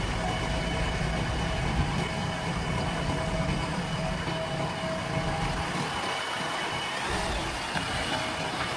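Heavy diesel machine engine running steadily, with a deep hum and a thin whine above it; the deep hum drops away about six seconds in.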